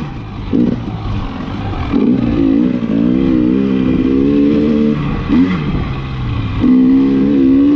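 Single-cylinder two-stroke engine of a KTM 300 XC-W TPI dirt bike, revving up and down with the throttle, its pitch rising and falling every second or two as it powers through deep, soft, whooped sand.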